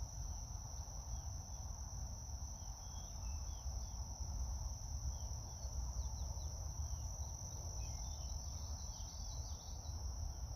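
Outdoor insect chorus: a steady high-pitched trill of crickets that runs on without a break, with scattered faint bird chirps and a low rumble underneath.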